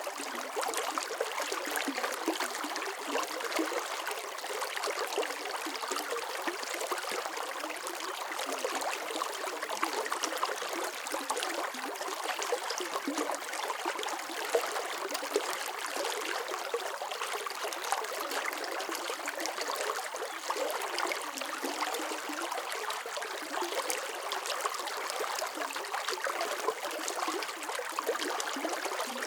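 Water flowing steadily in a stream, a continuous splashing and trickling with no low rumble.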